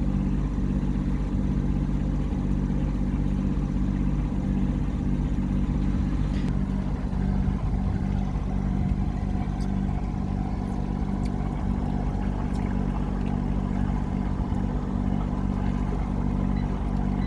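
A sailboat's inboard diesel engine running steadily under way as the boat motors out of an anchorage, a constant low hum. A few faint clicks sound now and then over it.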